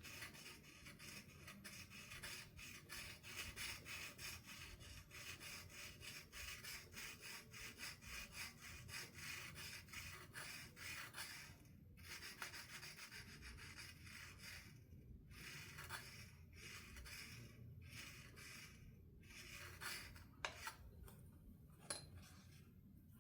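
A small hand file rasping back and forth across the metal frets of an electric guitar, dressing down the frets that sit high. Quick, faint strokes run steadily for about eleven seconds, stop briefly, then come in shorter runs with pauses between them.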